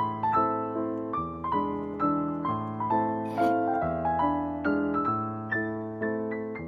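Background piano music: a gentle melody of struck notes over sustained chords, several notes a second.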